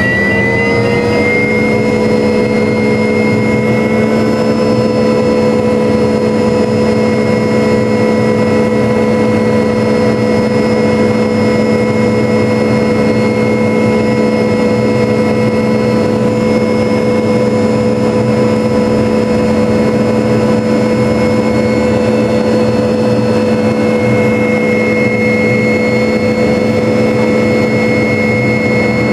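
MD500 helicopter's turbine engine and rotors running steadily: a loud, even whine made of several steady tones over a dense hum, the tones rising slightly in the first second and then holding.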